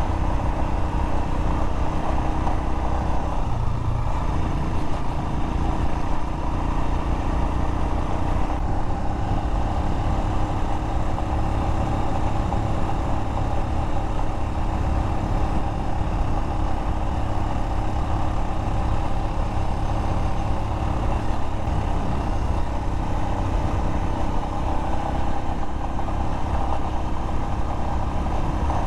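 Royal Enfield Himalayan motorcycle engine running steadily under way on a rough dirt road, its note shifting about four and again about nine seconds in.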